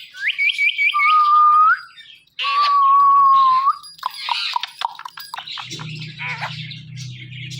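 Indian ringneck parrot calling: a quick run of about five rising chirps, then two long whistles, then softer chattering and clicks.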